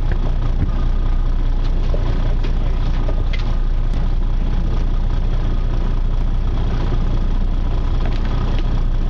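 Charter boat's engine running steadily, a constant low drone with no change in speed.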